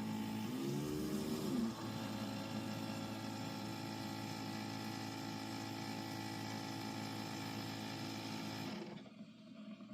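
Keurig coffee maker's water pump running with a steady hum. About a second in, the pitch briefly rises and falls, and the hum cuts off near the end. With its suction hose cleared of trapped air, the machine is brewing again.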